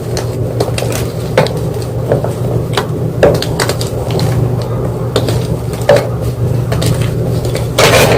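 White gym chalk crunching and crackling as it is crushed, in a string of irregular sharp cracks with a louder cluster near the end.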